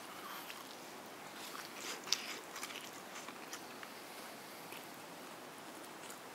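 Someone chewing and biting crispy breaded fried chicken chop, with scattered crunches; the sharpest comes about two seconds in.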